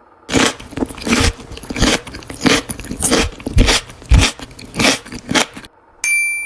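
Crunchy food being bitten and chewed close to the microphone, about two loud crunches a second. About six seconds in, a bright chime-like ding rings out and fades.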